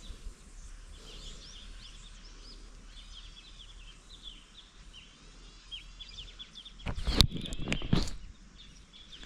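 Small birds chirping busily in quick short calls, with a burst of loud knocks and rustling about seven seconds in.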